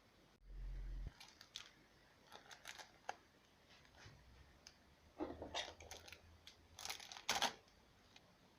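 Small handling sounds: a short low thump about half a second in, then scattered clicks, taps and scrapes, bunched twice in the latter half.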